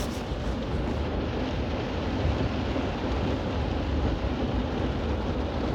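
Heavy rain pouring down on a car with the vehicle running, a steady dense noise that is strongest in the low end.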